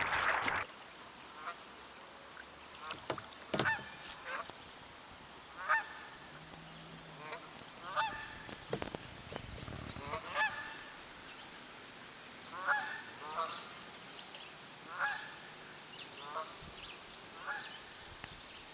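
Music cuts off about half a second in, then a bird gives short calls, repeated every one to two seconds, over a faint steady background.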